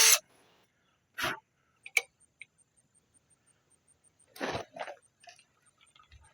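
A power tool, likely a drill or impact gun, stops right at the start. A few scattered knocks and clinks follow, about one at a time with a cluster near the end, typical of tools and parts being handled during strut work.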